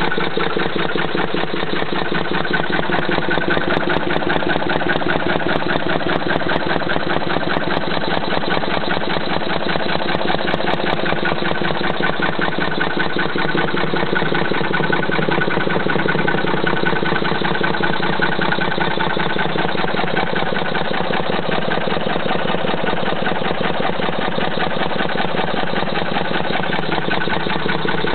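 Petter stationary engine driving an air compressor, running steadily at an even, rapid beat.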